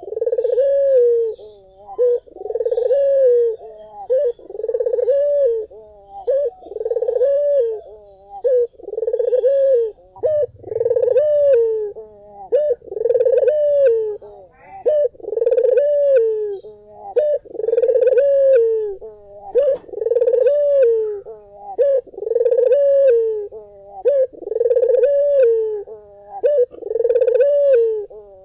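Barbary dove (puter) cooing over and over, a steady run of similar coos, each rising and then falling in pitch, with short pauses between them.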